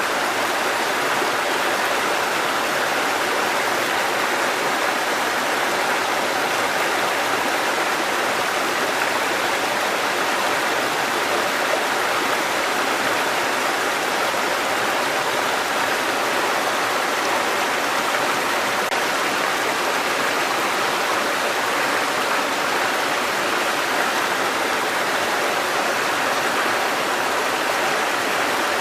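Mountain stream water cascading over rocks, a steady unbroken rush.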